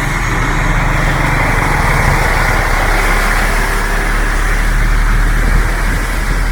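Motor vehicle running close by: a steady low engine rumble under a loud rushing hiss, easing off right at the end.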